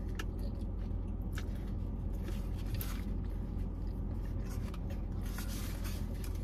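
A person chewing a bite of hamburger, with wet mouth sounds and scattered crackles of paper packaging, over a steady low hum inside a car's cabin.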